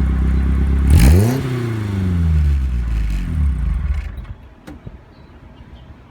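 BMW 2002's four-cylinder engine idling through its exhaust, given one quick blip of the throttle about a second in, with the revs sinking back down. The engine then stops about four seconds in, leaving only a few faint clicks.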